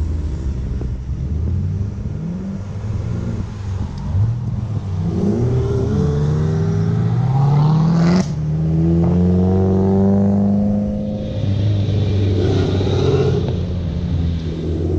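Performance car engines running at low speed, one revving up twice in the middle with its pitch rising, and a sharp crack about eight seconds in.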